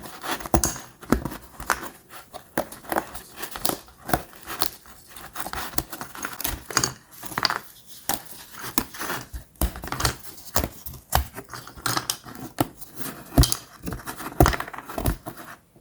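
Hands handling the parts of a 3D wooden puzzle kit: a continuous run of irregular small clicks, snaps and rustles.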